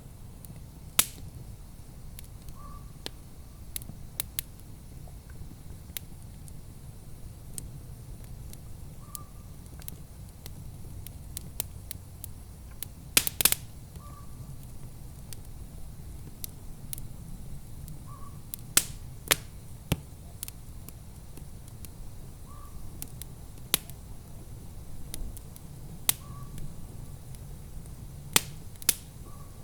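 Wood fire in a fireplace crackling: irregular sharp pops and snaps, a cluster of the loudest about thirteen seconds in, over a steady low rumble.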